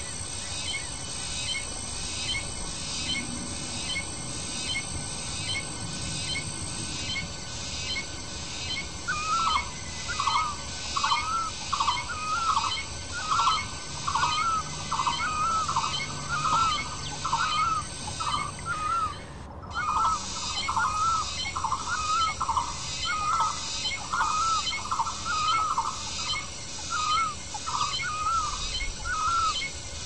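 Birds calling: a steady series of short, slurred notes, about two a second, starts about a third of the way in and runs nearly to the end. Beneath it, from near the start, runs a fainter, faster, evenly repeating high chirping.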